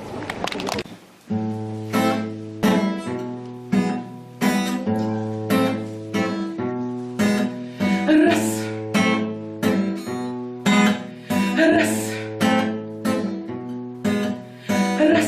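Acoustic guitar strummed in a steady rhythm of about two strokes a second, playing the introduction to a song. It starts a little over a second in.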